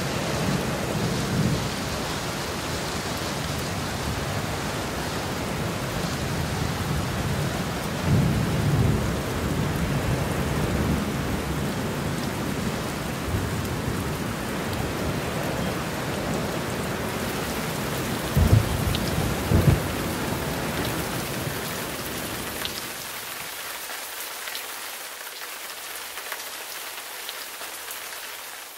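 Steady rain from a passing thunderstorm, with deep rolls of thunder: one near the start, one about eight seconds in, and two short cracks close together about two-thirds through. After that the thunder stops and the rain slowly eases.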